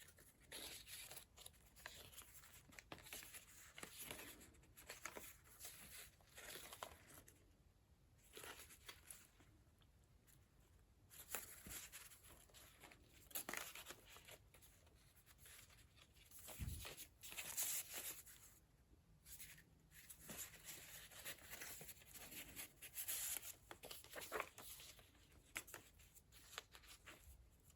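Faint rustling and light taps of paper pages and cards being handled and turned in a handmade paper journal.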